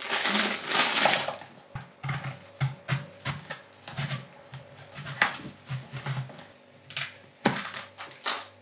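Vegetables being prepared on a kitchen worktop: a second of crinkling plastic packaging, then a run of short, irregular knife knocks on a chopping board, about two or three a second.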